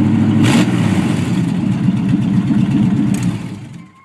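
Chevrolet L05 5.7-litre V8 idling loudly through open Hedman headers with no mufflers, then shut off near the end and dying away.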